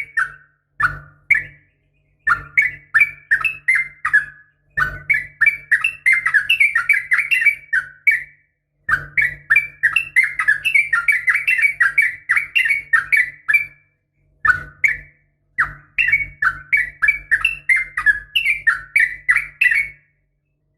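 Yellow-vented bulbul (trucukan) song: long runs of rapid, bubbling notes, several phrases of a few seconds each with short breaks between, stopping shortly before the end. It is the long 'ropel' song of a female calling a male, used as a lure to make other bulbuls answer, with a faint low hum under each phrase.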